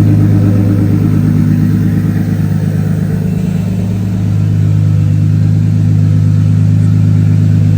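Steady mechanical drone with a constant low hum that holds one pitch throughout, with no revving.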